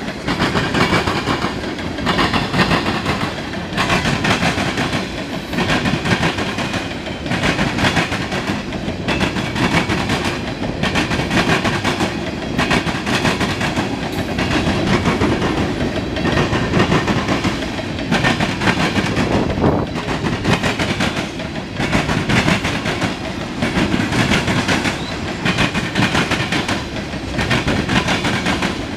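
Cars of a passing freight train rolling by, their wheels clacking over rail joints in a steady repeating rhythm over a continuous rumble.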